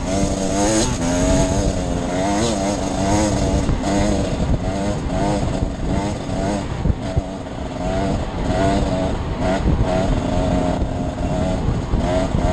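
Off-road dirt bike engine being ridden hard, its pitch rising and falling continually as the throttle is opened and closed.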